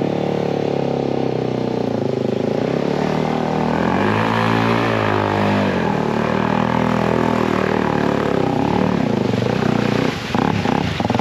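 Dirt bike engine revving up and down as it works through a boggy river crossing, its pitch rising and falling repeatedly. A few knocks come near the end.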